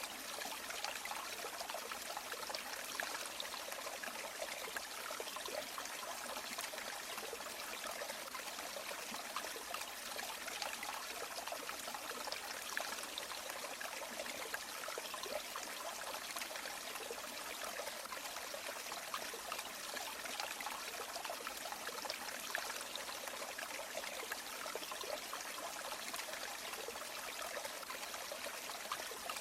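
A river or stream flowing and trickling, a steady babbling water sound with fine splashes.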